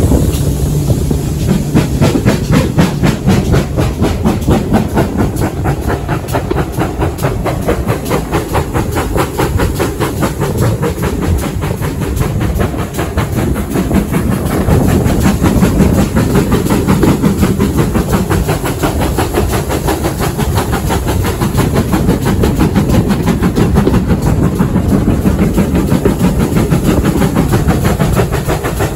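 Heritage passenger train running at speed, heard from an open carriage window: a steady low rumble with a rapid, even rhythmic clatter and hiss.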